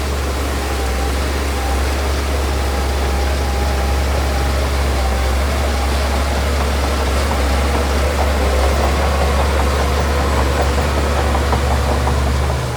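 Heavy diesel earthmoving machinery running steadily, a deep engine rumble with a mid-pitched hum that grows a little louder in the second half.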